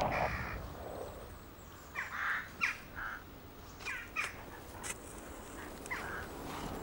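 The echo of a single gunshot dying away, then birds calling in a series of short separate calls.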